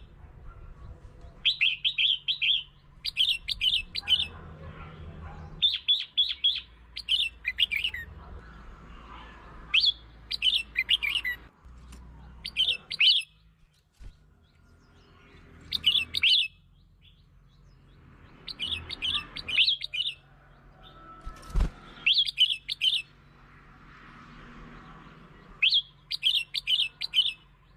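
Red-whiskered bulbul singing short, quick phrases of a few bright notes, repeated every two to three seconds with pauses between. A single sharp knock sounds about three-quarters of the way through.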